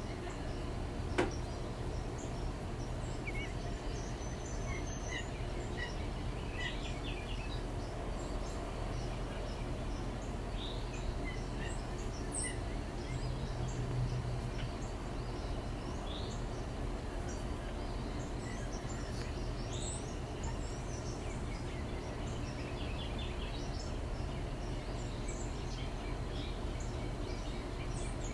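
Small backyard birds chirping and tweeting in short scattered calls over a steady low background hum, with a single sharp click about a second in.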